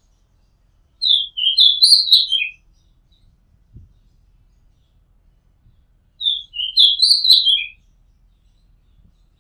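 Oriental magpie-robin singing: two phrases about five seconds apart, each a quick run of clear whistled notes, the same phrase repeated.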